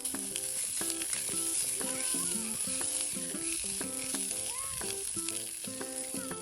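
Food sizzling in a frying pan, a steady frying hiss, under background acoustic guitar music.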